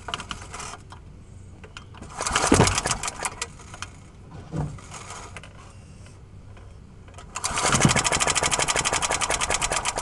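Old lawnmower's small engine being pull-started cold with its recoil cord: a short burst of cranking about two seconds in, then a longer, louder run of rapid even firing or cranking near the end. The engine does not keep running.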